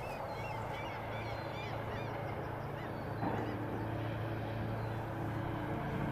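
Birds calling over and over over a steady low hum, thinning out after about two seconds. Soft held music tones come in about halfway.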